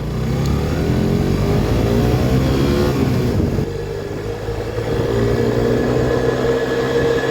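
Suzuki GSX-S125's 125 cc single-cylinder engine accelerating, its pitch rising over the first three seconds, dropping about three and a half seconds in, then running steadily.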